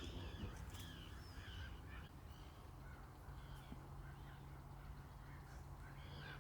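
Wild birds calling: short, harsh, arched calls repeated many times, thickest in the first two seconds and again near the end, over a faint steady low hum.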